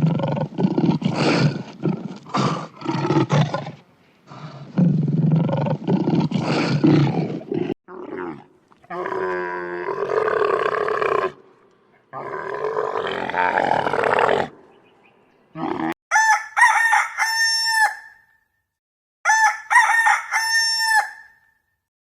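A run of animal calls: deep, rough roars for the first several seconds, then a rooster crowing twice with long calls, then short high calls repeated rapidly near the end.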